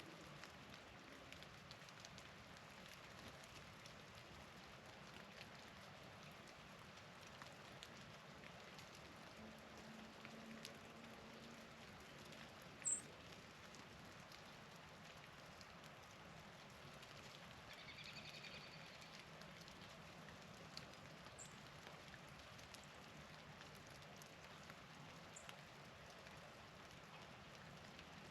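Faint steady patter of falling wet snow or rain, with scattered light ticks. A sharp, high, very short chip note sounds about thirteen seconds in, with a couple of fainter ones later.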